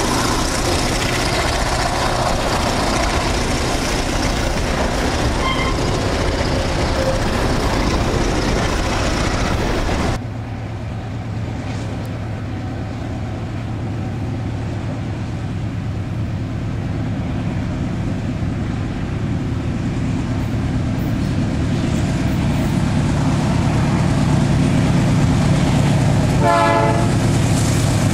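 Wheels of a freight train's empty hopper wagons rolling and rattling past on the rails. After about ten seconds this gives way suddenly to a diesel-electric freight locomotive's engine running as it approaches, slowly growing louder, with a short horn toot near the end.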